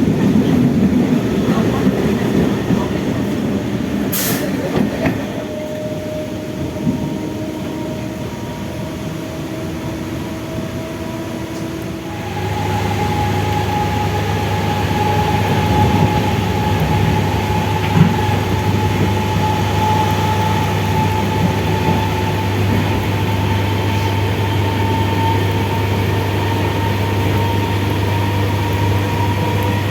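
MEMU electric multiple-unit train running between stations, its motor whine rising slowly in pitch as it gathers speed. About twelve seconds in it grows louder, with a strong low hum joining the rising whine.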